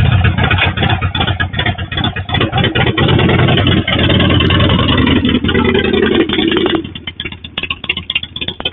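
An engine running, loud and uneven with fast irregular pulses; it drops off and becomes patchier about seven seconds in.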